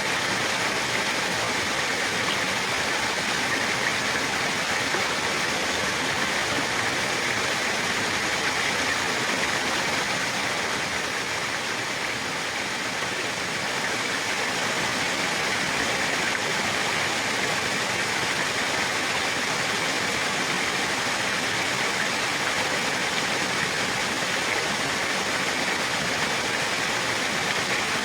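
Flowing water rushing steadily, like a stream or small waterfall, a little softer about halfway through.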